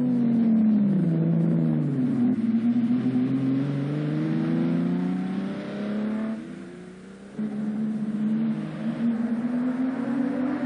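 Ferrari V12 sports racing car engine revving and accelerating, its pitch rising and falling through the gears. The sound drops away briefly about six seconds in, then comes back.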